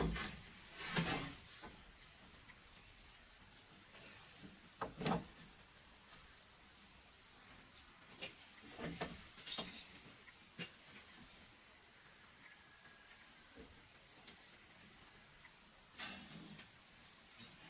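An insect trilling steadily in one continuous high tone, with a few scattered knocks and scrapes of wood being handled.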